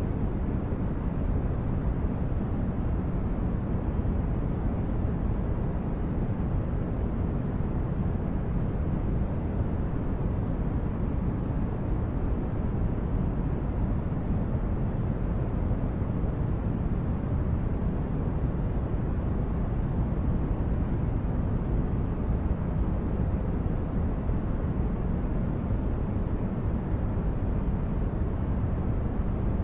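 Steady, deep rumbling noise of a synthetic spaceship-interior ambience, heavy in the bass like brown noise, unchanging throughout.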